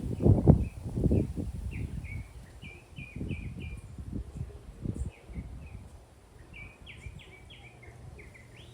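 Wind buffeting the microphone in low rumbling gusts, strongest in the first second and dying away after about five seconds. Over it a bird chirps short notes in quick runs, once around three seconds in and again near the end.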